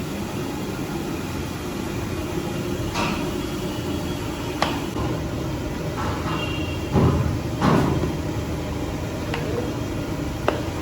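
Steady street-side rumble with a handful of sharp knocks and clanks, the loudest two close together a little past halfway.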